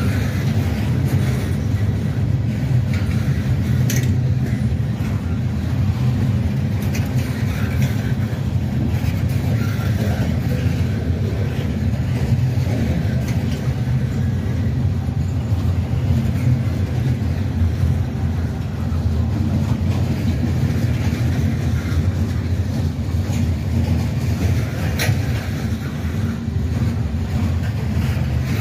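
Diesel train running steadily, its engine giving a low, even drone, with a few sharp clicks about 4 seconds in and near the end.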